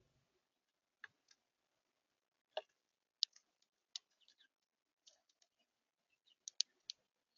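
Birds at a seed feeder making faint, irregular sharp clicks and taps, about a dozen scattered over several seconds.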